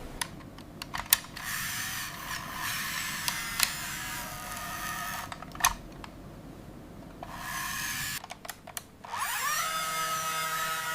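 Small electric motor and gearing of a toy construction vehicle whirring in spells, with scattered clicks. Near the end a motor spins up with a rising whine and then runs steadily.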